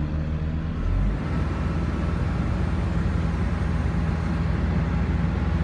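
Kobelco SK140-8 excavator's diesel engine running steadily under work, a continuous low drone with a brief low surge about a second in.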